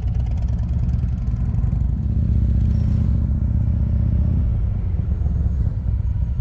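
Motorcycle engine running at low speed with a steady low rumble, easing off slightly about four and a half seconds in.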